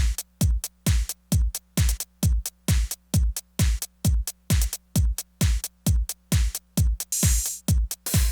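Korg Electribe Sampler ES2 playing a tech house beat: a four-on-the-floor kick whose pitch drops on each hit, about two beats a second, with short bright hi-hat hits and near silence between beats. A burst of bright, hissy noise comes about seven seconds in.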